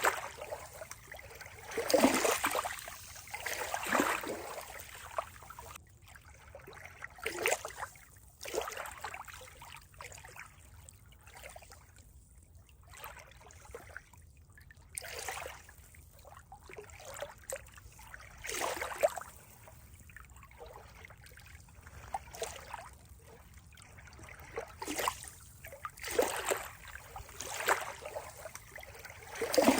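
Water trickling and splashing in irregular surges, each under a second long, one to two seconds apart, with quieter gaps between.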